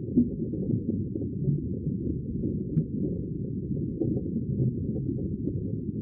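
Sea water making a steady, muffled low rumble, with nothing high-pitched in it.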